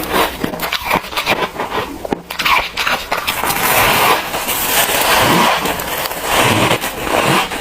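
Freezer frost crunching close to the microphone: a dense run of crisp crackles and longer grinding crunches.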